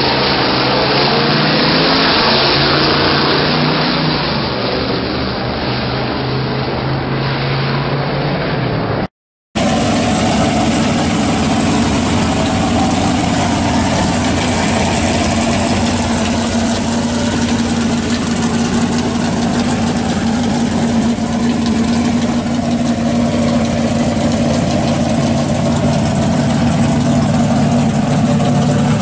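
1968 Chevrolet Chevelle SS drag car's V8 at full throttle as it launches and pulls down the drag strip. After a cut about nine seconds in, the same engine idling steadily.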